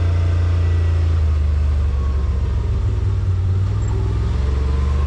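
Yamaha RMAX side-by-side's engine running steadily, a loud low drone that shifts slightly in pitch a couple of times, heard from inside the machine.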